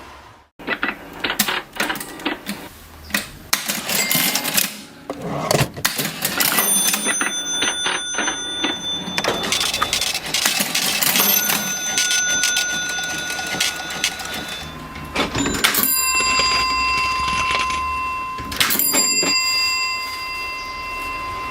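Vintage mechanical cash register being worked: rapid clacking of its keys and levers, with its bell ringing out several times and lingering, most of all in the last few seconds.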